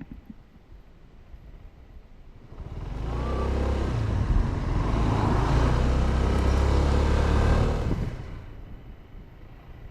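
A motor vehicle engine grows loud about two and a half seconds in, runs for about five seconds, then falls away just after eight seconds.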